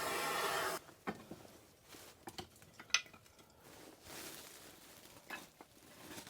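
A steady rushing noise that cuts off suddenly just under a second in, then scattered light clinks and knocks of small hard objects being handled, the sharpest about three seconds in.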